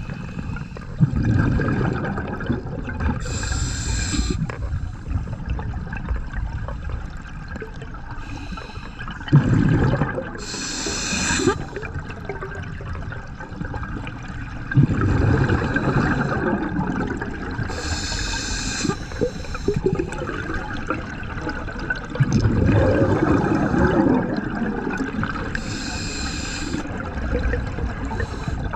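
Scuba diver breathing through a regulator underwater: each exhale sends out a low rush of bubbles, followed by a short hiss of the inhale, about four breaths in a slow, even rhythm.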